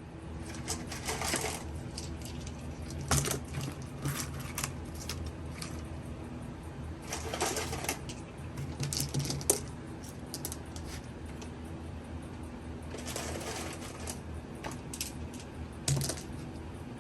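Scattered small clicks and short rustles of objects being handled on a work surface, over a steady low hum.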